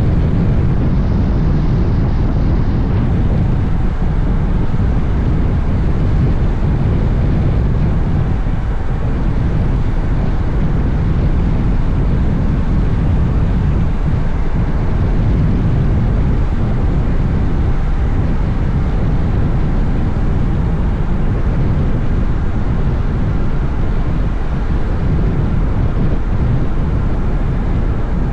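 Steady wind buffeting the microphone of a moving Honda X-ADV motorcycle, with engine and road noise underneath, in strong wind.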